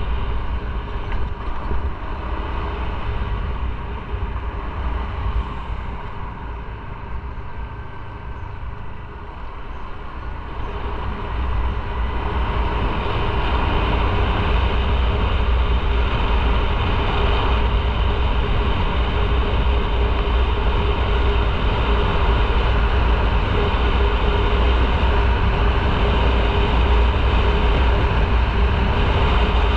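A motorcycle on the move, its engine rumbling under steady road and wind noise; the sound eases off for a few seconds, then builds again from about ten seconds in and holds steady and louder.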